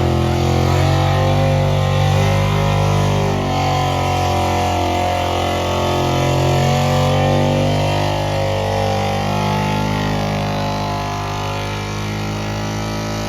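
Engine of a pulling vehicle running loud and hard under load during a sled pull, its pitch holding fairly steady with slight rises and dips.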